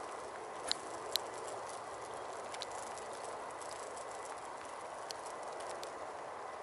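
Light rain pattering steadily, with a few sharp ticks about a second in and again near five seconds.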